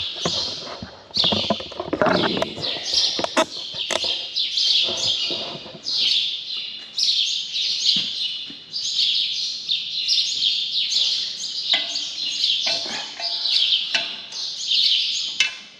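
Many small birds chirping in a continuous, overlapping chorus, with occasional short knocks and scrapes underneath, mostly in the first few seconds.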